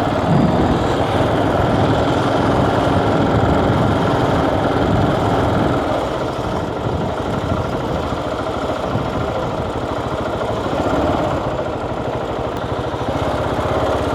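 Motorcycle engine running steadily, its level easing a little about six seconds in.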